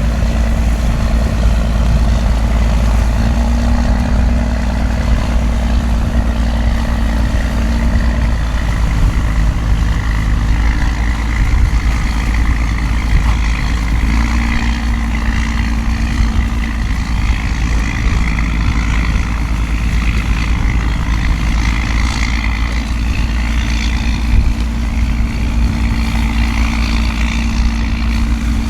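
A boat engine running steadily at low revs, a deep rumble with a steady hum, under the constant hiss of heavy rain.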